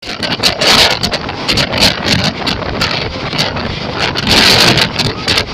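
Wind rushing and buffeting a microphone held out of a passenger coach moving at speed, over the running noise of the train on the track. The gusts swell louder about half a second in and again about four seconds in.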